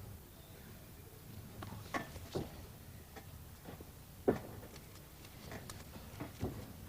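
Scattered knocks and thumps of wrestlers' feet and bodies on the ring canvas, with one sharper impact about four seconds in, over a low hum of the hall.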